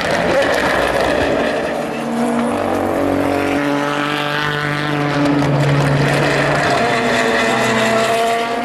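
Race car engines running at speed on the circuit, their pitch rising and falling as they accelerate and shift gears, with a clear upward sweep around the middle.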